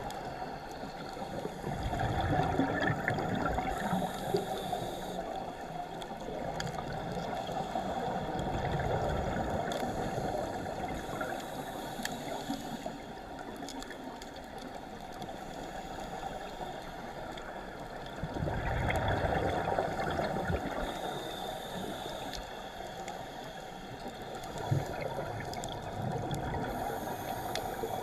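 Underwater sound of a scuba dive: bubbles from divers' regulators gurgling over a steady hiss, swelling in surges a few seconds in and again about two-thirds of the way through.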